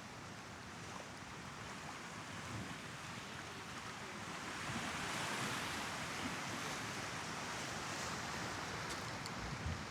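Small Mediterranean waves breaking and washing up a sandy beach, the hiss of the wash swelling about halfway through and staying up.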